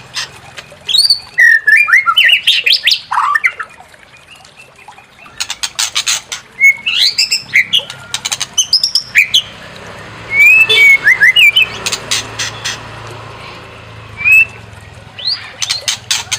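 White-rumped shama (murai batu) singing loud whistled phrases of notes that glide up and down, in several bursts with short pauses between, mixed with runs of fast rattling clicks.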